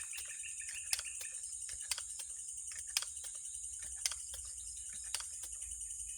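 Night insects droning steadily in a high, even band, with a sharp click about once a second.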